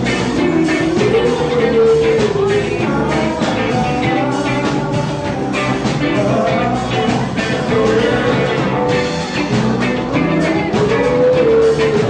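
A band playing a song: a sung melody that glides up and down over drums and backing instruments with a steady beat.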